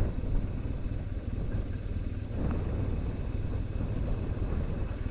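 BMW R1200GS Adventure's boxer-twin engine running with a steady low rumble.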